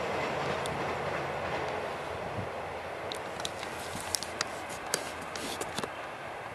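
A long freight train of container wagons rolling away on the line, its steady rumble and wheel noise slowly fading, with a few short sharp clicks in the second half.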